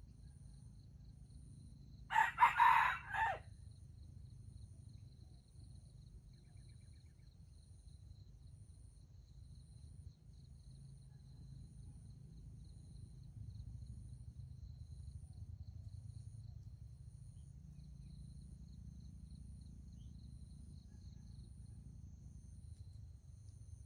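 A junglefowl rooster crows once, a short clipped crow of about a second and a half, a couple of seconds in. After it there is only a faint low rumble.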